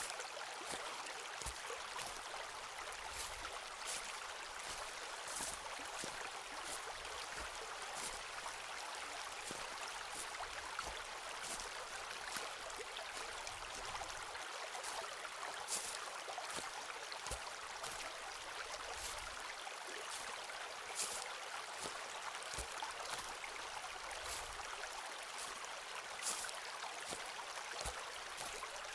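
Footsteps on a forest trail at an unhurried walking pace, about one step a second, over a steady rush of flowing stream water.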